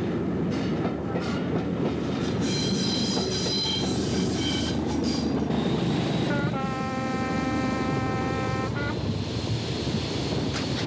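Hastings diesel-electric multiple unit running with wheels clattering over the rail joints and a high squealing between about two and five seconds in. About six seconds in the train's horn sounds one long steady note for about two and a half seconds.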